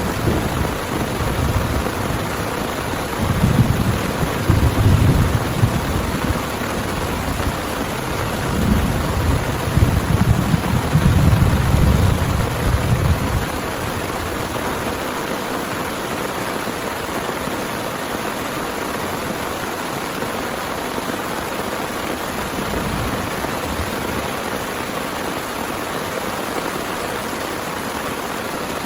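Heavy rain falling steadily, with rolling thunder rumbling in waves through the first half that dies away about halfway through, leaving just the rain.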